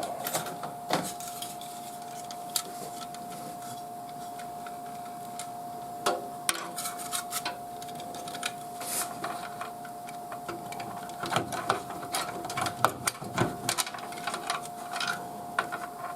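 Scattered light clicks, taps and rattles of computer parts being handled and fitted by hand, more frequent in the last few seconds, over a faint steady tone.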